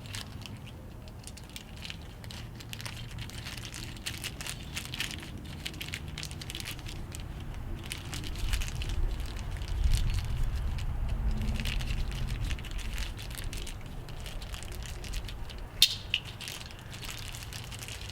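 Grill wheel parts being handled: crinkling, crackling handling noise with scattered light clicks, and one sharp click near the end.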